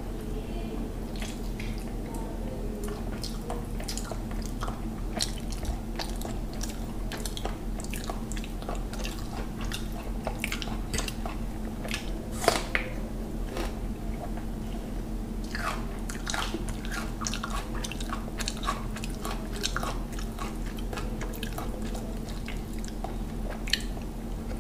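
Close-up mouth sounds of a man eating mutton biryani with his fingers: wet chewing and small smacking clicks throughout. About halfway through there is a sharp crunch as he bites into a slice of raw onion. A steady low hum runs underneath.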